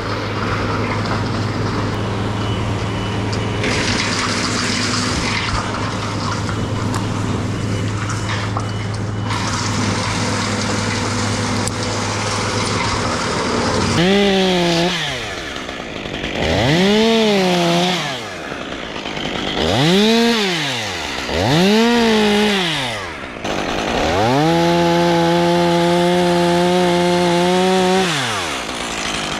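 A steady low engine hum, then about halfway through a chainsaw is revved up and down in four quick bursts and then held at full throttle for several seconds, as in a cut, before dropping and revving again near the end.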